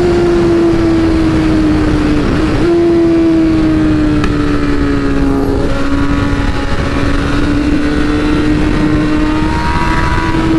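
BMW S1000RR's inline-four engine running at a steady cruising pitch, with wind rushing across the microphone. The engine note wobbles briefly about two and a half seconds in, sags slowly over the next few seconds, then climbs a little near the end.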